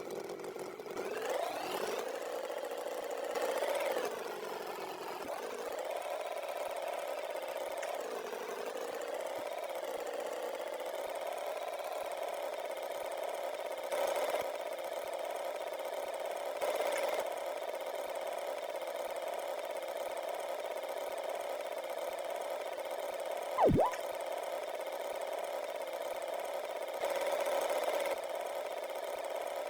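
Cartoon tractor engine sound effect running steadily, rising in pitch as it gets going at the start, with a few brief louder swells. A short, sharp swooping tone cuts in about four-fifths of the way through.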